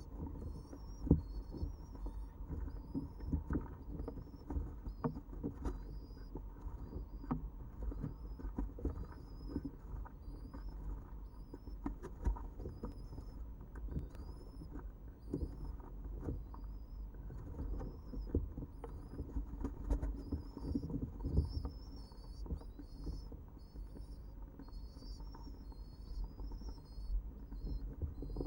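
Stock dove squabs being fed crop milk by a parent in a wooden nest box: constant scuffling with frequent knocks against the box, and thin high squeaks about once a second throughout.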